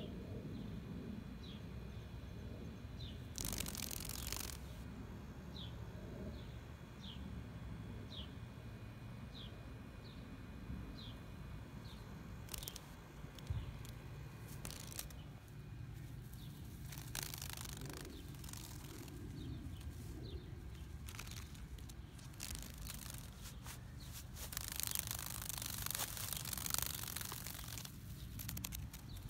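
A bird repeats a short, falling chirp about once a second during the first ten seconds or so, over a low outdoor rumble. Bursts of rustling and handling noise come and go, the loudest a few seconds in and again near the end.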